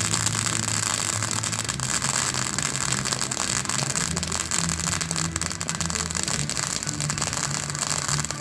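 Fireworks crackling: a continuous rattle of many small pops, over music with a bass line.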